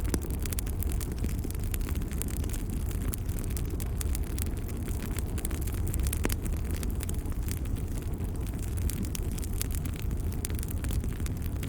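Fireplace fire burning with a steady low rumble and frequent sharp crackles and pops.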